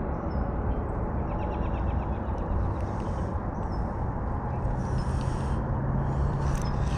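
Steady outdoor background noise, with a faint rapid chirping trill about two seconds in and a low steady hum joining about halfway through.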